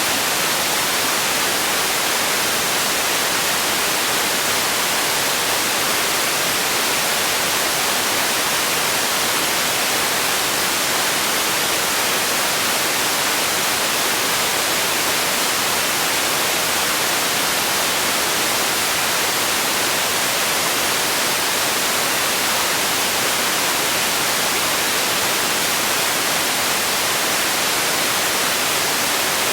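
Steady white noise: an even, unchanging hiss weighted toward the high end, with little low rumble.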